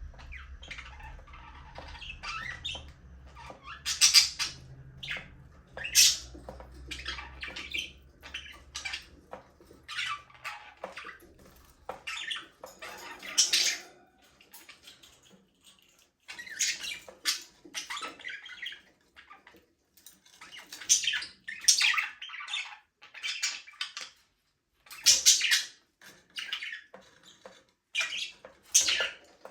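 A group of budgerigars chirping in quick, irregular bursts of short high calls, with a few brief lulls. A faint low hum runs under the first dozen seconds, then stops.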